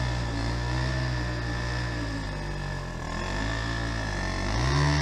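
Dirt bike engine revving, its pitch rising and falling in slow swells, highest about a second in and again near the end.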